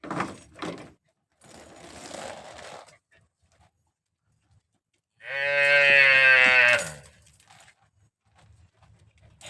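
A small cow mooing once: one long call of under two seconds, about five seconds in. Softer, brief noises come before it.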